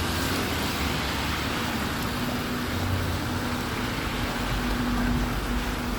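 Steady rain with road traffic on a wet street: an even hiss over a low rumble, with an engine hum that comes and goes.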